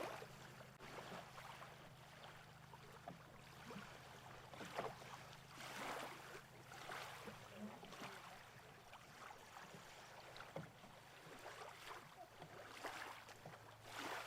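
Faint water sounds of a small boat on the water: irregular soft splashes and swishes over a faint steady low hum.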